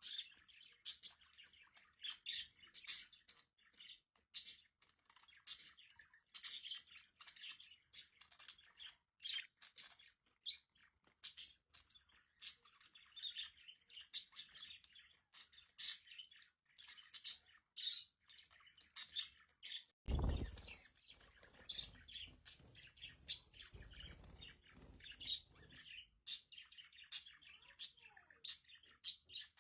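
Budgerigars chattering, a dense, continuous run of short, sharp chirps and warbles. About two-thirds through there is a low thump, followed by a few seconds of low rumble.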